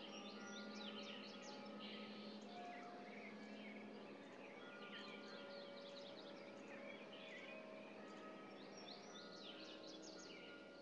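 Faint birdsong: many small birds chirping and twittering in quick overlapping calls, over a low steady hum.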